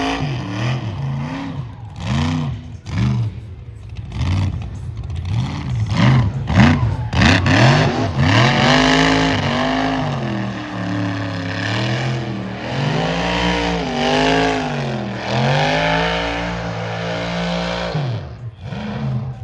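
Car engine revved hard in a series of short blips, then held at high revs for about ten seconds, its pitch swelling and dropping, before it falls away near the end.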